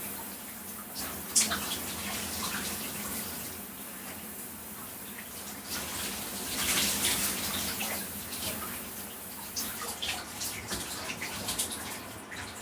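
Shower spray running over a person's body: a steady wash of falling water with irregular splashes and drips. It gets louder for a couple of seconds around the middle.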